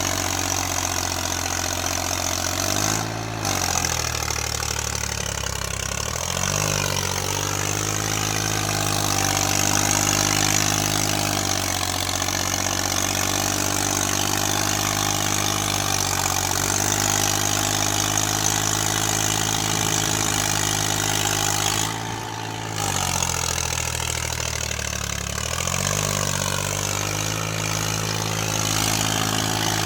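John Deere 5050D tractor's three-cylinder diesel engine running steadily while hauling a loaded trolley through mud. Twice, about three seconds in and again past two-thirds of the way through, the engine note drops and then climbs back.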